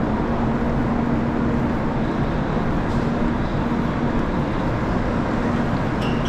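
Steady running rumble of a train, with a constant low hum through it.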